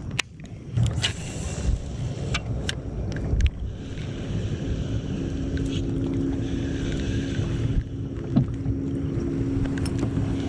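Fishing kayak out on open water: low rumble of wind and water with several sharp clicks in the first few seconds. About four and a half seconds in, a steady hum comes in and holds.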